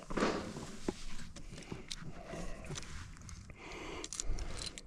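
Light footsteps with scattered small clicks and scuffs of handling.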